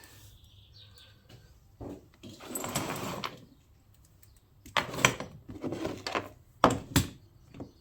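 Engine parts and hand tools being handled on the bench: a scraping rustle about three seconds in, then a run of sharp clicks and knocks as parts are set down and fitted.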